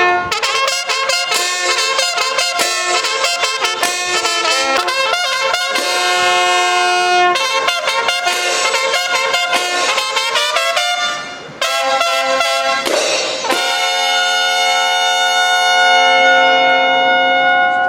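Brass band playing a lively tune led by trumpets, with quick runs of notes. It breaks off briefly about twelve seconds in, then plays long held notes.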